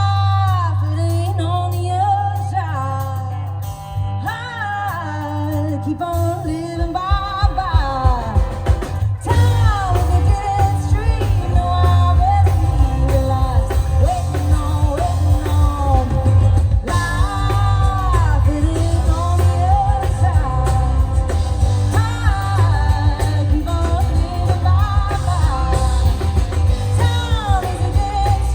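Live country-pop song: a woman singing the lead melody over an amplified band with bass and a steady beat, which becomes fuller about eight seconds in.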